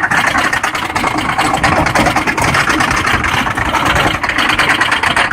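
Loud, steady mechanical noise with a fast, even rattle running through it.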